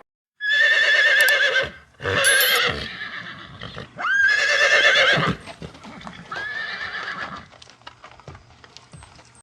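A horse whinnying four times, each call high and quavering, with the last one quieter. A run of faint clicks follows near the end.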